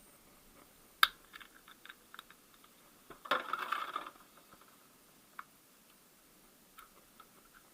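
Plastic caps being pried off car wheel bolts with a plastic tool: a sharp click about a second in, a few small ticks, then a brief clatter of light hard pieces a little past the middle and one more click.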